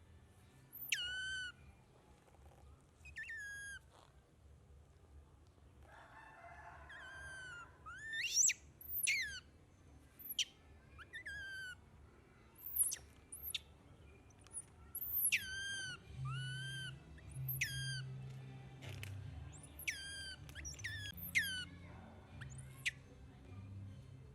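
Baby monkey crying: a run of high, whistle-like squeals, each one sliding sharply down in pitch, repeated every second or two.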